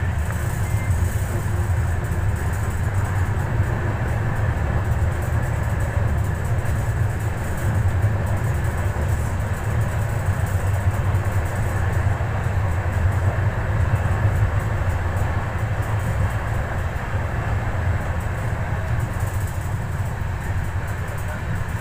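Passenger express train running at speed, heard from inside a coach: a steady low rumble of the wheels on the rails with rushing air.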